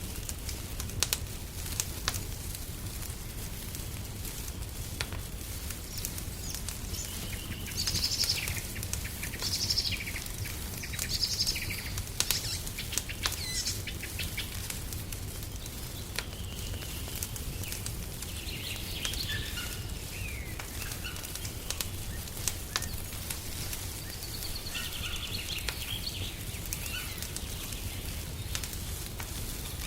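A wood fire crackling, with scattered sharp pops over a steady low rumble. Songbirds chirp and call in two spells, one before the middle and one later on.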